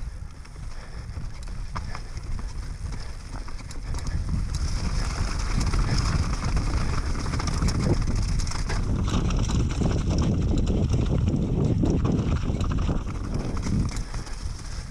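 Wind buffeting the microphone in a low rumble, over a rapid scatter of clicks and knocks like a mountain bike rattling over rough, rocky ground.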